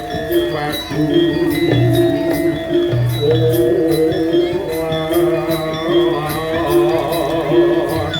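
Jaranan gamelan music: drums and sustained gong-like tones under an even jingling beat of about three to four strokes a second, with a wavering melody line coming in about three seconds in.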